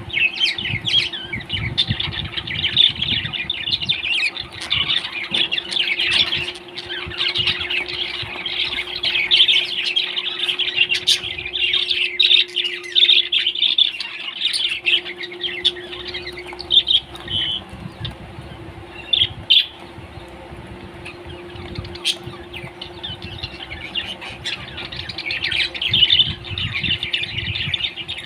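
Parrot chattering continuously with rapid chirps and squawks, over a faint steady hum.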